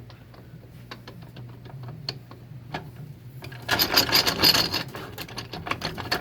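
Metal gear-train parts inside a 4L60-E automatic transmission clicking as they are handled, then rattling and clinking hard from about three and a half seconds in as the damaged gear set is worked loose and pulled out.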